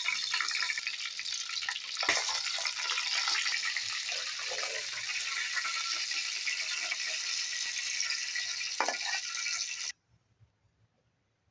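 Chicken pieces frying in hot oil in an aluminium pot: a steady sizzle with fine crackling, and a sharp knock about two seconds in. The sizzle cuts off abruptly near the end, leaving near silence.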